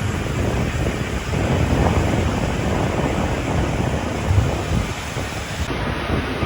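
Rhaetian Railway regional train running along the track: a steady rumble with wind buffeting the microphone.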